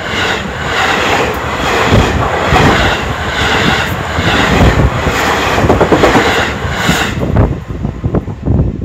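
A Seibu 001 series Laview limited express electric train passing close at speed: a loud rush with a steady rhythm of wheel clacks over rail joints. The rush drops off about seven seconds in, leaving a few scattered clicks.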